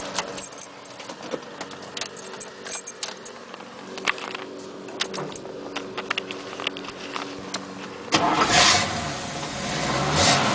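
Light clicks and rattles, then about eight seconds in a 1972 Camaro's 396 big-block V8 cranks and fires up suddenly, with a second surge in engine sound near the end.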